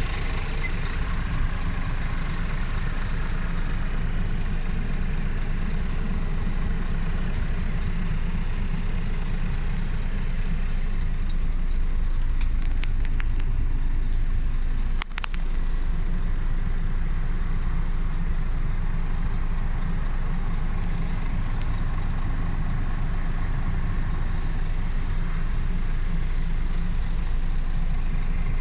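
Scania R480 truck's diesel engine idling steadily with a low rumble, with a few light clicks around the middle.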